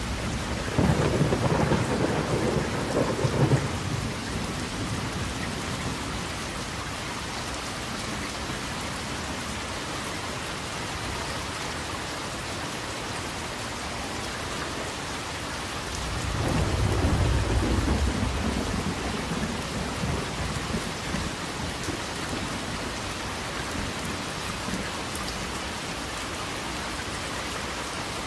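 Steady rain with two rolls of thunder, the first starting about a second in and lasting a few seconds, the second a little past the middle.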